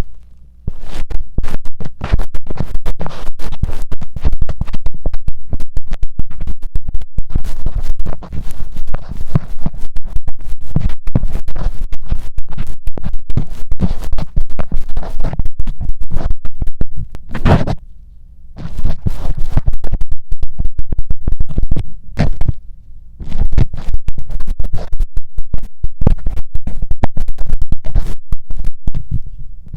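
A metal ear pick scrapes and presses sticky earwax into a mini microphone's ear, very close to the mic. The strokes are dense and rapid, with brief pauses about 18 and 22 seconds in.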